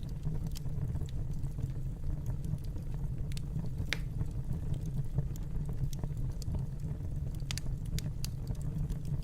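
Wood fire in a fireplace crackling: a steady low rumble of the flames with scattered sharp pops and snaps, the clearest about four seconds in and a cluster near the end.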